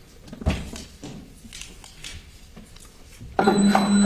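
Quiet room tone with a few faint knocks, then about three and a half seconds in the soundtrack of a played-back phone video cuts in suddenly and loudly: a steady low hum under a wash of noise.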